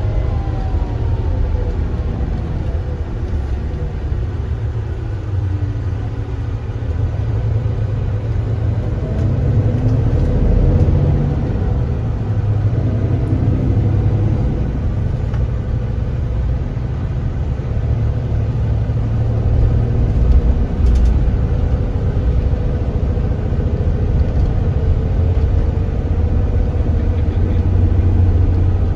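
Kia Granbird Sunshine coach bus engine running on the road with a steady low rumble. Its pitch falls over the first few seconds as the bus slows, then rises again about ten seconds in.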